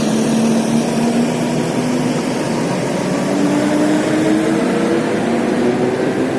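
Motorcycle engine running under load, its pitch climbing slowly and steadily as the bike accelerates, with wind and road noise.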